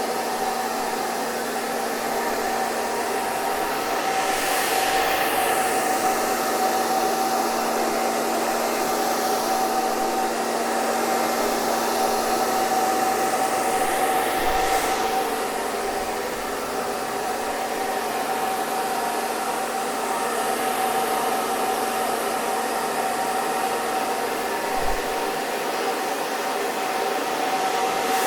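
Electric hair dryer running steadily: a continuous blowing rush with a steady motor whine, the hiss shifting slightly in tone every ten seconds or so.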